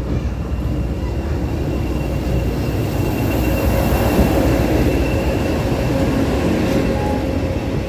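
Train running past on the rails: a steady rumble that builds to its loudest about four seconds in, then eases, with a faint thin steady tone over it.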